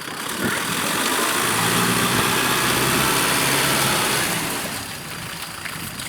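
Kubota M6040 tractor's diesel engine running, growing louder for a few seconds and easing off again about four and a half seconds in.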